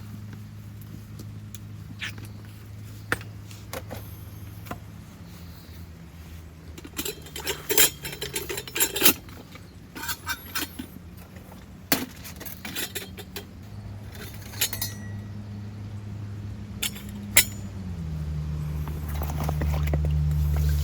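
Small metal and glass objects clinking and clattering, with a cluster of clinks in the middle. A steady low engine hum runs underneath and rises in pitch and loudness near the end.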